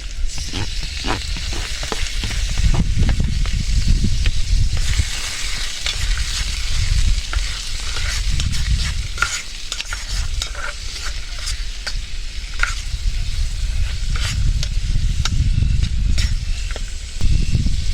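Food sizzling in a frying pan while it is stirred, with frequent short clicks and scrapes of the utensil against the pan. A low rumble swells and fades underneath.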